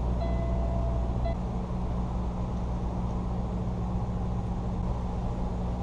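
Semi truck's diesel engine idling steadily, heard from inside the cab. A repeating electronic beep runs over it and stops about a second in.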